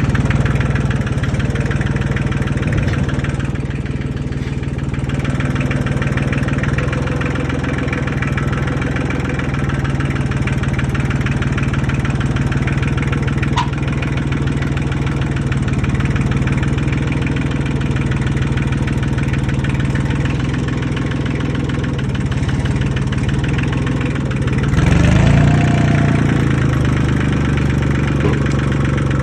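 Tractor engine running steadily while working a hay bale of over 1,000 pounds on its bale forks; it gets briefly louder near the end.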